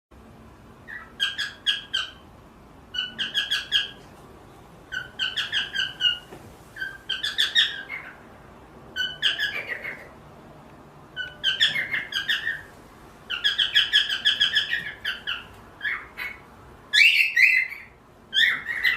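Cockatiel whistling in short phrases of rapid repeated notes, a phrase about every two seconds, with a louder, harsher call near the end.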